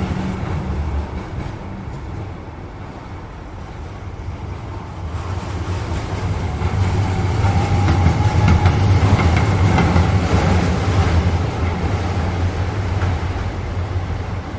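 A superfast train running by on the railway line: a steady rumble of wheels on rails that dips briefly, swells to its loudest around the middle, then eases off toward the end.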